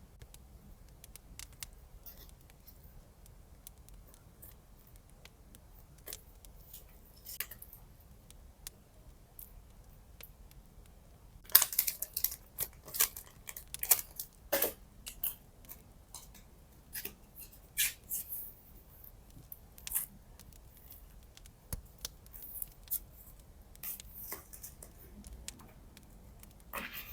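Scissors cutting paper: a quick run of crisp snips about halfway through, then scattered single cuts and light handling sounds.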